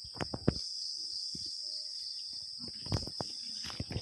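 Steady chorus of crickets, a constant high-pitched trill, with a few scattered sharp knocks and handling noises close by.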